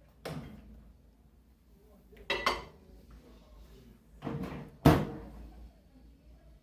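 Knocks and clatter of a microwave oven's door and a dish being handled: four short bursts, the sharpest and loudest about five seconds in.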